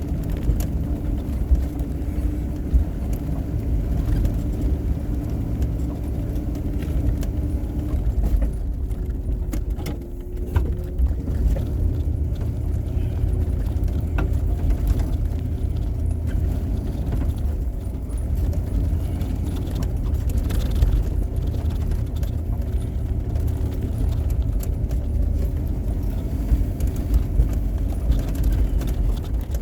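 Snow-plowing vehicle's engine running steadily with a low rumble, with scattered light rattles and clicks.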